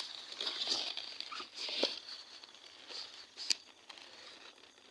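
Footsteps crunching and rustling through dry leaves and undergrowth, uneven and irregular, with two sharp clicks, one near the middle and one about three-quarters through.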